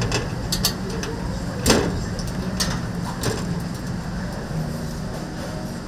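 Restaurant kitchen sounds: a steady low machine hum with about five sharp clinks and knocks, the loudest a little under two seconds in.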